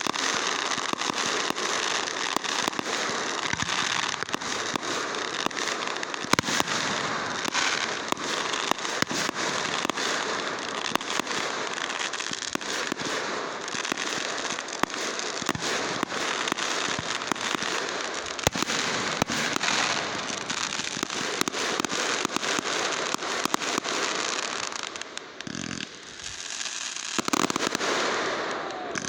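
Fireworks going off in a dense, continuous crackle of rapid pops, easing off briefly near the end before a louder burst.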